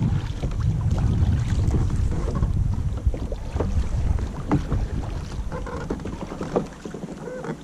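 Wind buffeting the microphone with a low rumble that eases off after about five seconds. Scattered small splashes and knocks of kayak paddles dipping in the water run through it.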